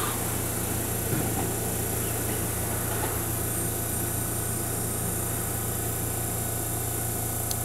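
Keihan electric train running away from the station around a curve: a steady low hum and hiss as it recedes, with no wheel squeal.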